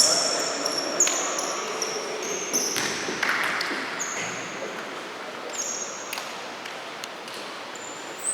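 Futsal players' shoes squeaking on an indoor court floor again and again, with a few sharp knocks of the ball being kicked or bouncing.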